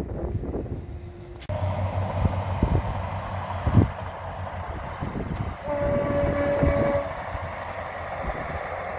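Northern diesel multiple unit running past with a steady low rumble. There is a sharp thump just before four seconds in, and the train sounds its horn once, a steady blast of just over a second, about six seconds in.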